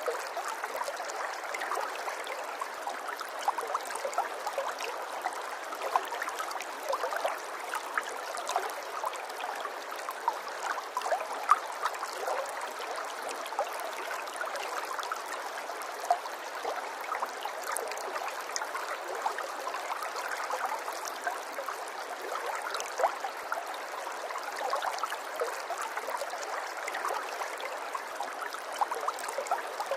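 Running water trickling and bubbling steadily, a dense run of small splashes with no deep rumble underneath.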